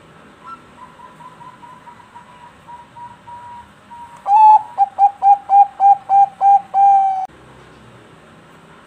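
Zebra dove (perkutut bangkok) singing: a soft run of quick, evenly spaced coo notes, then about four seconds in a loud run of about ten coos, the last one held longer.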